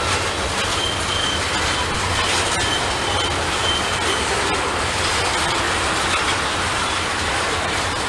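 Norfolk Southern freight train cars rolling past with a steady rumble of wheels on rail. Short high wheel squeals come again and again, with a few sharp clicks from wheels crossing rail joints.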